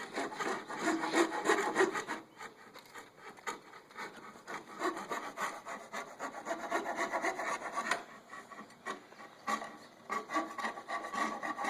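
Hand saw cutting through plywood in uneven back-and-forth strokes, with a couple of short pauses.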